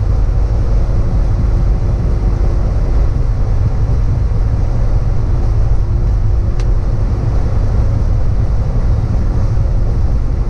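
Steady low rumble of a heavy vehicle running, even in level throughout, with a faint steady hum running through it.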